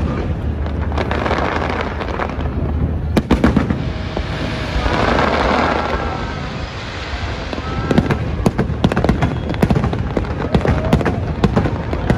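Aerial fireworks display: a run of sharp bangs and crackling, growing into a dense, rapid crackle from about eight seconds in.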